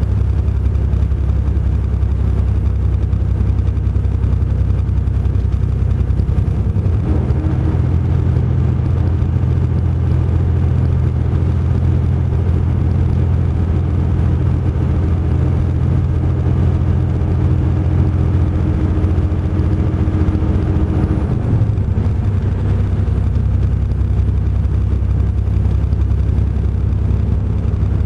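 Heavy truck engine running steadily under way, a deep drone whose note shifts for a stretch from about seven seconds in until about twenty-one seconds, then settles back.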